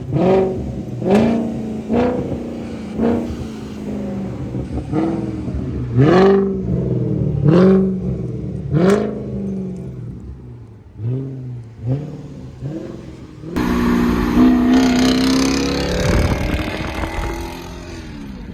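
Audi A8 4.2 V8 through a custom 3-inch true dual exhaust with an X-pipe, being blipped about ten times in quick rev bursts that each rise and fall. About two-thirds of the way through it is held at higher revs in one longer pull before the pitch drops away.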